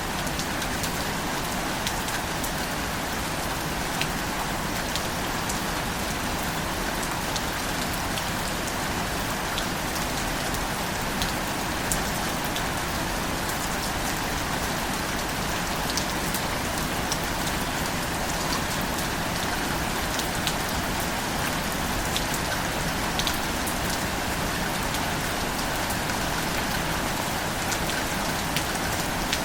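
Steady rainfall, a constant hiss with scattered sharp drop ticks.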